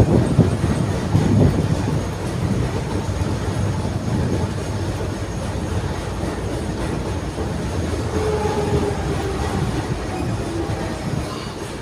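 Type 71-631 tram running on its rails: a steady rumble of wheels and running gear, louder in the first couple of seconds, with a faint whining tone joining about eight seconds in.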